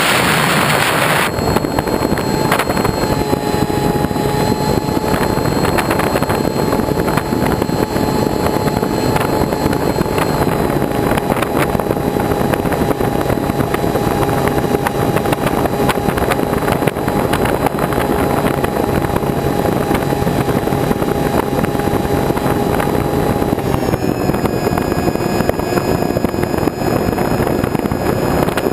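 A vehicle engine running at a steady speed, with a constant hiss of wind noise. Its hum holds one pitch and drops a little about 24 seconds in. A loud gust-like rush fills the first second.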